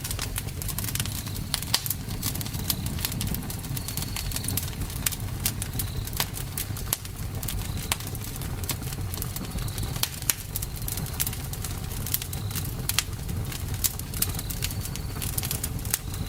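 Campfire burning: a steady low rumble of flames with frequent irregular sharp pops and crackles of burning wood.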